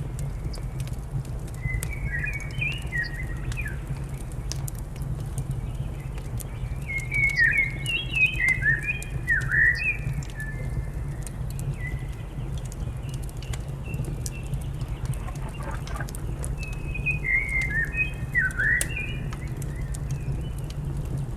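Songbird chirping in short, quick phrases in three bouts, over the steady low rumble and scattered sharp crackles of a wood fire.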